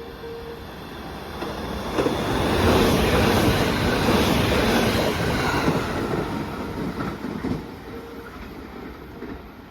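Rapid passenger train passing through a station without stopping: the rush of the cars and the wheel clatter build over about a second, stay loud for around four seconds, then fade away.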